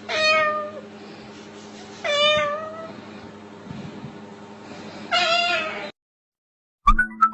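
Three drawn-out meows, each under a second and falling in pitch at the end, spaced a couple of seconds apart over a steady low hum. Near the end the sound cuts out and music begins.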